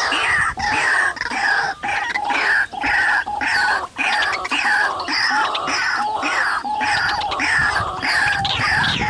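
White-breasted waterhens (ruak-ruak) calling: a loud, unbroken run of harsh repeated notes, about two a second.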